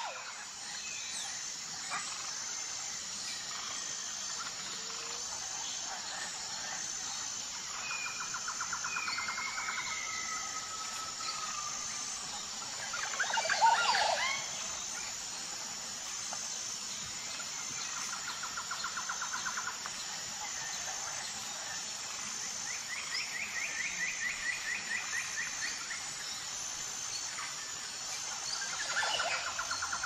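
Wild birds singing and calling, with several trilled phrases of rapid repeated notes over a steady high-pitched chirring background. One louder call about halfway through, and another near the end.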